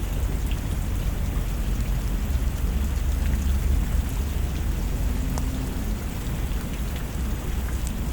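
Steady heavy rain hissing, with a deep rolling rumble of thunder underneath.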